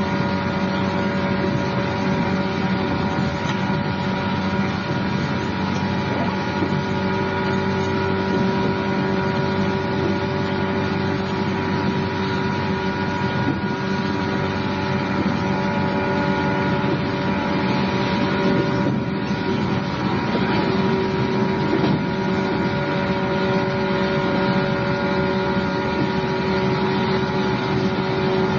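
Cabin sound of an electric multiple-unit commuter train: a steady rumble with a constant hum.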